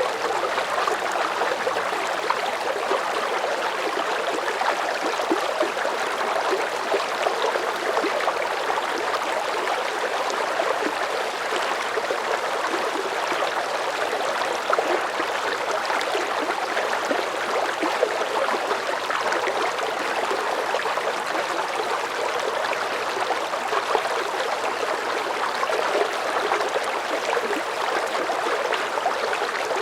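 River current flowing at a moderate pace: a steady, even rush of moving water with constant fine splashing and gurgling.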